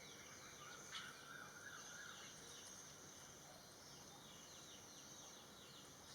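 Faint garden bird sounds: short, quick, falling high chirps repeating throughout over a steady high-pitched drone, with a brief wavering, fowl-like call about a second in.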